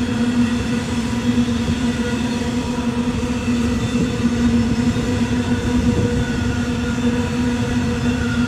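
Train running: a steady low rumble under a constant droning hum, with no change in pace.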